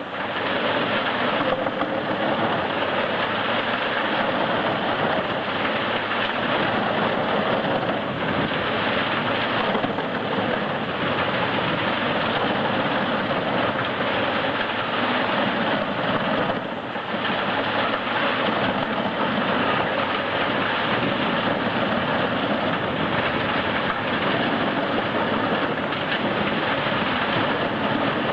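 Large wood chipper running under load: a loud, steady, dense mechanical noise of engine and chipping, dipping briefly about halfway through.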